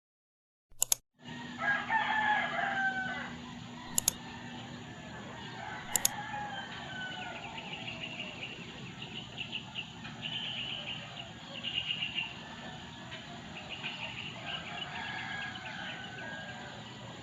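A rooster crows once about two seconds in, a slightly falling call, followed by small birds chirping over a steady background hiss. A few sharp clicks fall near the start and at about four and six seconds.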